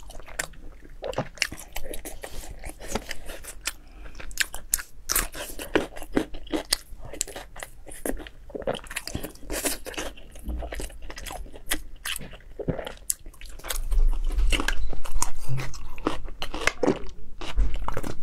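Close-miked chewing and biting of sticky, glutinous black rice sausage dipped in chili sauce: wet smacks and short crunchy bites. In the last few seconds the level rises, with a few low thumps.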